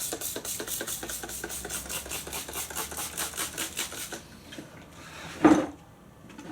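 Trigger spray bottle of Windex pumped rapidly, about five quick hissing squirts a second for about four seconds, lubricating a motorcycle tyre bead for fitting. A single loud knock follows near the end.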